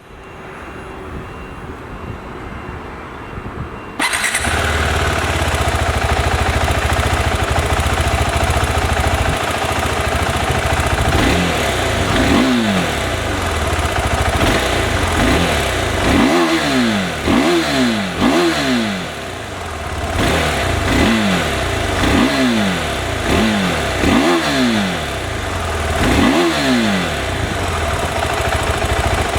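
KTM 390 Adventure's single-cylinder engine catching about four seconds in, then idling, with about ten quick throttle blips from about eleven seconds in, each rev rising and falling back to idle.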